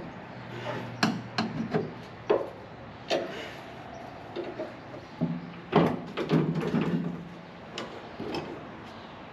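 Irregular knocks, clicks and clatter of tools and parts being handled during work on a pickup's rear shock absorbers, with a brief low hum a little past the middle.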